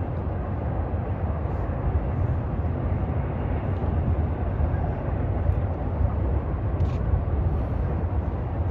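Norfolk Southern intermodal freight train rolling past: a steady low rumble of the cars on the rails.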